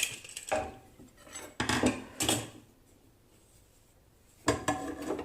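A spoon knocking and scraping inside a pot as chicken curry is stirred to check whether it is cooked: a sharp clink at the start, a few scrapes, a quiet pause, then more clattering near the end.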